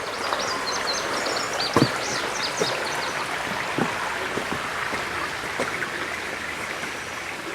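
Spring water welling out of the ground and running in a steady, even rush. A small bird chirps a rapid run of high notes over the first few seconds.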